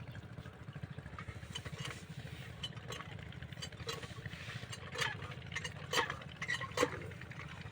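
Small single-cylinder 5 hp diesel engine running steadily with a fast, even low thudding beat, driving an irrigation water pump that has just begun to draw water. A few sharp clicks sound over it in the second half.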